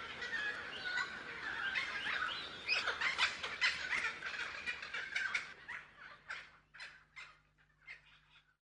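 Songbirds chirping and twittering in many quick, short calls, thinning out over the last few seconds and stopping just before the end.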